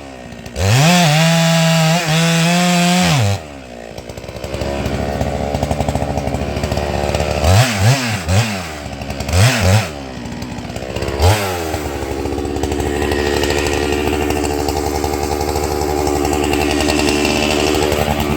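Holzfforma 395XP two-stroke chainsaw running at full throttle, dipping once briefly. About three seconds in it drops to idle, then is blipped in short quick revs, in two sets of three and then once more, before settling back to idle.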